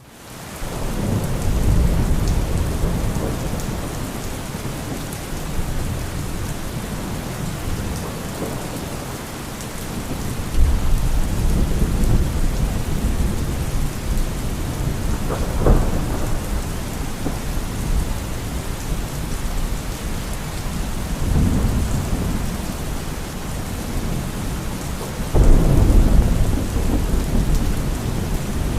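Thunderstorm: steady heavy rain with repeated rolls of thunder, one sharp crack about halfway through and a sudden loud rumble near the end.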